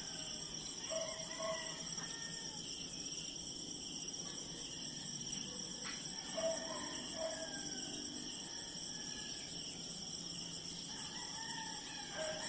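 Outdoor nature ambience: a steady high-pitched insect chorus, with short calls in pairs from a bird repeating every few seconds, and a single faint click about six seconds in.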